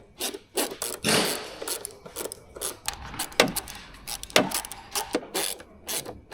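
Irregular clicks, knocks and scrapes of hand tools and hard plastic parts as the screws and clamp of a car's air filter housing cover are undone.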